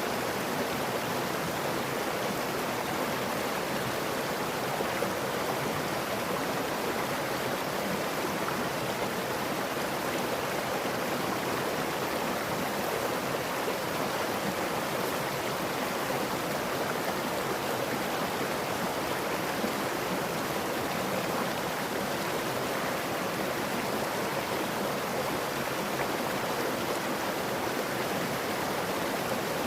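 Stream water flowing, a steady unbroken rush.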